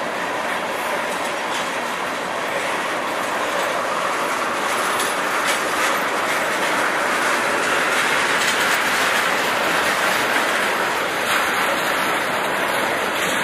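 Freight train of tank cars rolling past at steady speed: a continuous roar of steel wheels on rail with occasional clacks as the wheels cross rail joints.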